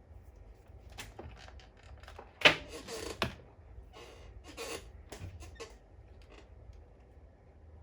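Clicks and knocks of tools and small parts being handled on a repair bench, the loudest a sharp knock about two and a half seconds in, followed by a brief scraping rustle and another knock.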